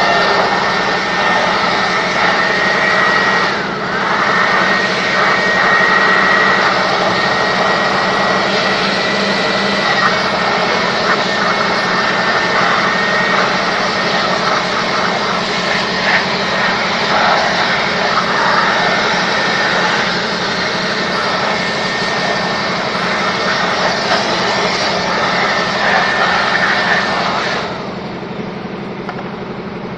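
Electric air blower running with a steady rush of air and a high whine. The pitch wavers briefly about four seconds in, and the blower cuts off near the end.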